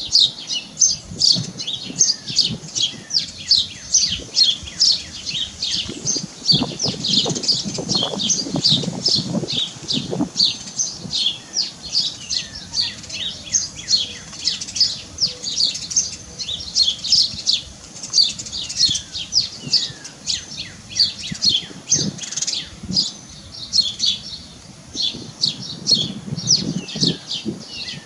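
A bird chirping on and on, short high chirps repeated about two or three times a second.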